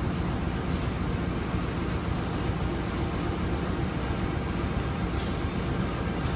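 Passenger train running, heard from inside the carriage: a steady rumble of wheels and carriage on the track, with a few short hisses about a second in and near the end.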